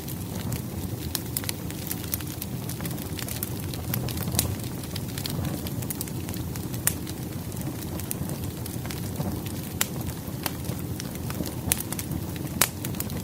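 Burning firewood crackling: a steady low rumble with frequent sharp pops and snaps, a few louder snaps in the second half.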